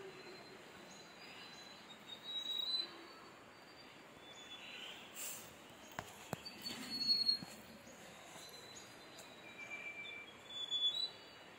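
Faint birds chirping in forest over a soft, steady background hiss, with a few brief rustles and a sharp click about six seconds in.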